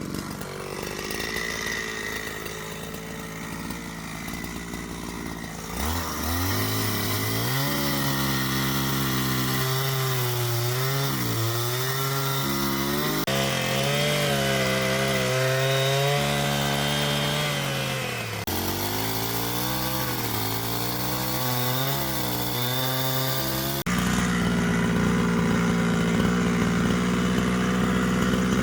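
Two-stroke chainsaw cutting wood, its engine note dipping and rising as the chain bites, with abrupt jumps in the sound every few seconds.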